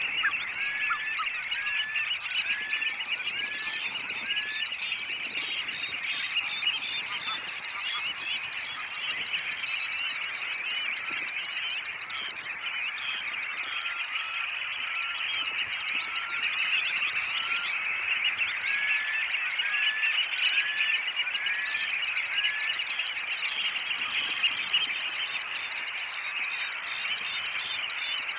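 A dense chorus of many birds calling at once, a continuous chatter of short high notes. Runs of short rising call notes come through it several times.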